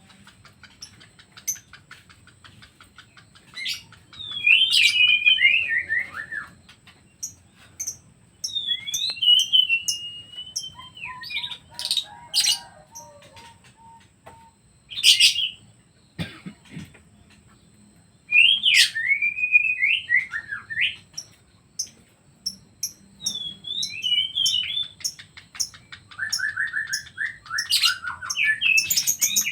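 Pet songbirds singing: short warbled phrases of sweeping whistled notes every few seconds, between runs of quick high chirps and a few sharp single calls.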